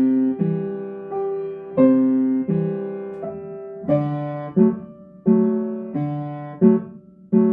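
Piano playing a slow, simple melody with both hands. A new note or chord comes about every 0.7 seconds over alternating low bass notes, each note struck and left to ring.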